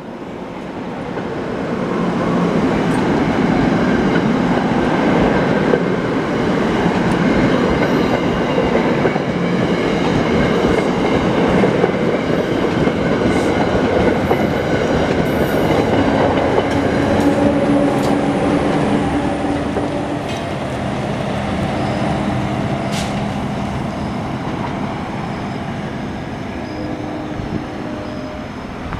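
Seven-car NJ Transit commuter train rolling close past, a Comet V push-pull set with an ALP-45DP locomotive at the rear: a steady rumble and clatter of wheels on rail that fades over the last ten seconds as the train pulls away.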